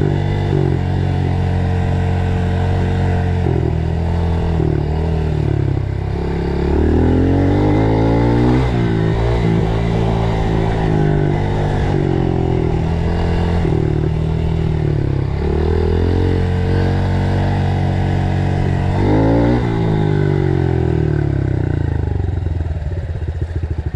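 Dirt bike engine running while riding, its revs rising and falling over and over, with two quick rev sweeps. Near the end the revs drop and the engine settles into slow, uneven pulses.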